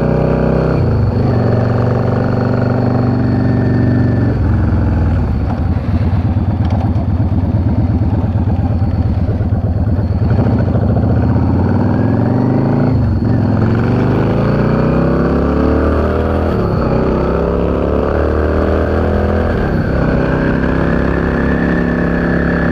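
Yamaha V Star 650's air-cooled V-twin engine running under way, its pitch rising and falling with throttle and gear changes; a clear shift about 13 seconds in is followed by a steady climb in revs.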